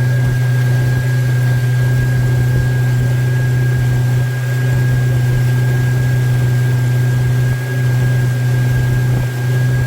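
A loud, perfectly steady machine hum with a constant thin high tone above it and a background hiss, unchanging throughout.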